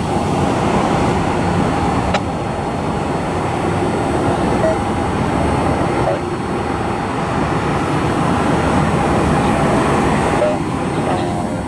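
Jet airliner engine noise: a steady broad rumble with a faint high whine.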